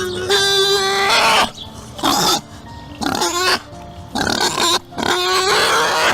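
An animal calling loudly about five times, each call half a second to a second long, over background music with a held note.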